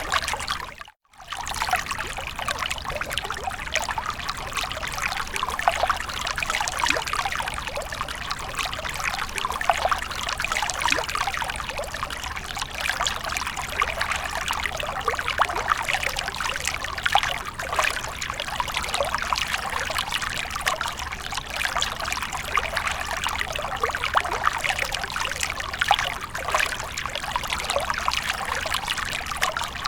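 Fountain water splashing and trickling steadily, with a brief drop-out about a second in.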